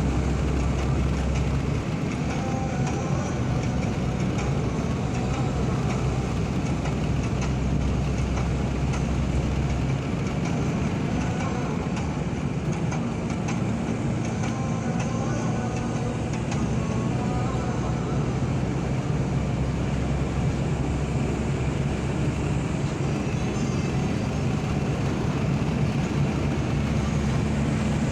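Steady running noise of a moving vehicle: an even rumble and hiss with a low hum that keeps on without a break.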